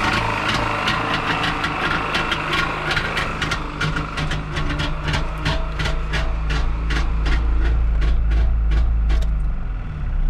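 Trabant P601's two-cylinder two-stroke engine idling, with a sharp ticking several times a second that thins out near the end. This is the unpleasant noise being traced. The owner places it at the crankshaft's belt pulley and suspects the outer crankshaft bearing or a rubbing seal on the pulley side.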